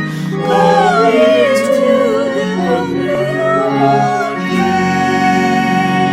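A singer with instrumental accompaniment: a wavering melody over steady sustained chords, settling about four and a half seconds in onto a long held note, as at the close of a song.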